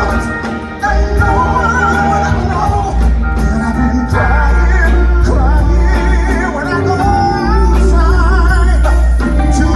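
Live soul ballad performance by a vocal group and band: a voice holds wavering notes over a steady bass and the band, with a brief dip in loudness just under a second in.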